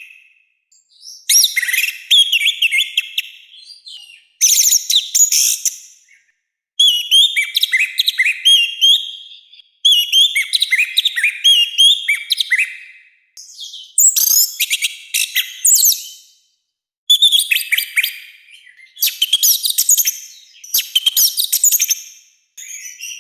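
Orange-headed thrush singing loud, rough song in about nine bursts of rapid, varied whistled notes, each one and a half to three seconds long, with short pauses between them.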